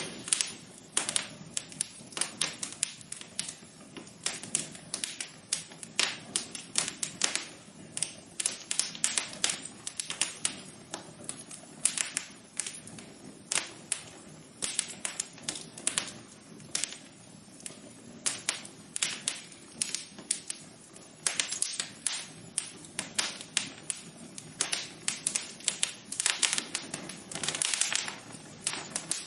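Wood fire crackling in a fireplace: irregular sharp pops and snaps, several a second and uneven in loudness, over a soft steady hiss of the flames.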